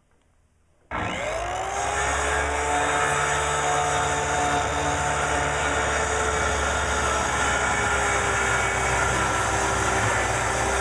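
Electric circular saw switched on about a second in, its motor whining up to speed and then running steadily as it cuts a board.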